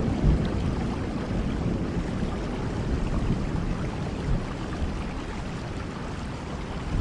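Steady rain falling, with a deep rumble underneath that slowly fades.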